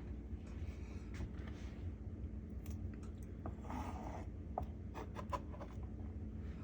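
Quiet kitchen handling sounds of salad being assembled: soft rustling and a scattering of light clicks and taps over a faint steady low hum.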